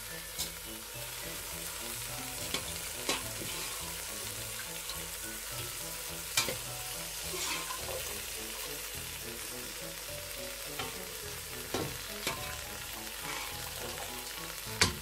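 Pieces of mutton with tomato, potato and whole spices frying and sizzling steadily in a pot, the bhuna stage of a mutton pulao. A slotted spoon clacks sharply against the pots a handful of times.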